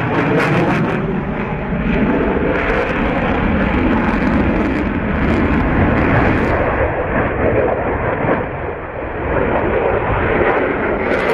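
Loud aircraft engine noise from a display flypast, a steady roar that eases briefly about eight or nine seconds in before building again.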